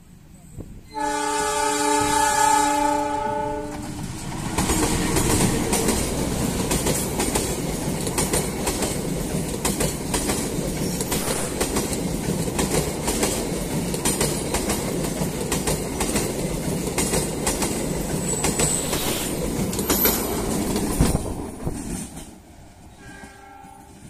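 A passenger train's diesel locomotive sounds its horn, one blast of about three seconds as it approaches. The train then passes close by, a loud rumble of locomotive and coaches with clicking of wheels over the rails, which drops away after about twenty seconds. Just before the end a fainter horn sounds briefly from a distant train.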